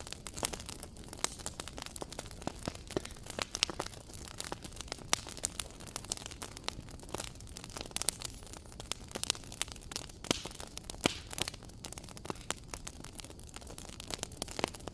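Wood fire crackling in a fireplace: frequent irregular sharp pops and snaps over a low steady rush of flame.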